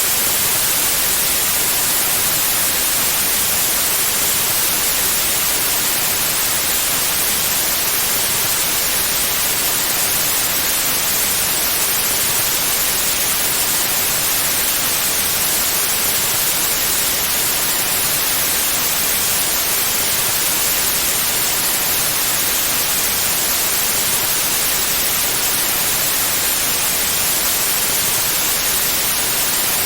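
Steady white noise: an even, unbroken hiss, heaviest in the high frequencies, with no changes or other sounds.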